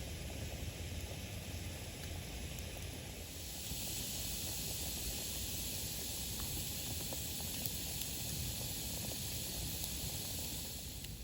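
Campfire burning with a steady hiss that grows louder about three and a half seconds in and falls back near the end, with a few faint crackles.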